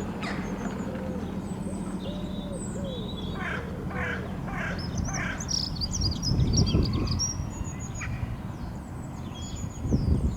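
Wild birds calling: a run of low arched calls, then four harsh calls in quick succession about four seconds in, among high chirps of small birds. Two low rumbles on the microphone, around the middle and near the end, are the loudest sounds.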